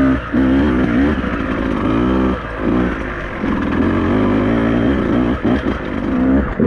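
Beta 200RR two-stroke enduro bike engine revving up and down as it is ridden, its pitch climbing and falling several times with brief drops as the throttle is rolled off.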